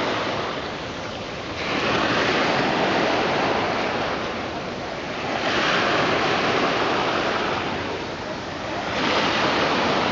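Sea waves breaking on a shore, the surf swelling and easing about every three to four seconds.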